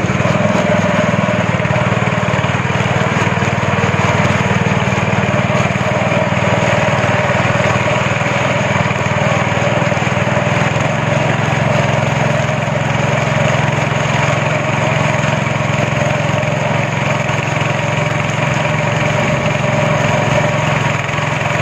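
Speedboat engine running steadily under way, a loud continuous drone.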